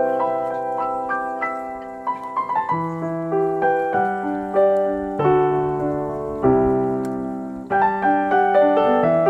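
Background music: solo piano playing a slow melody over sustained chords.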